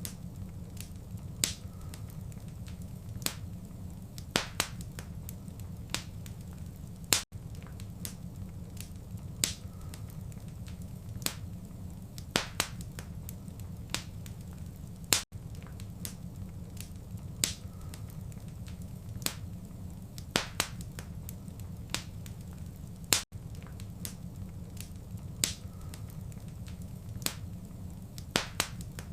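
Wood fire crackling: irregular sharp snaps and pops over a steady low rumble. The sound briefly drops out about every eight seconds.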